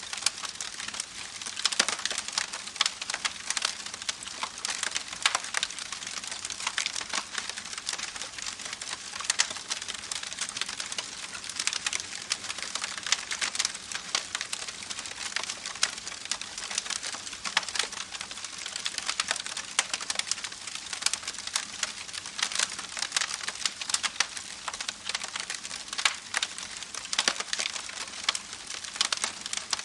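Campfire burning, with a steady hiss and dense, irregular crackles and pops.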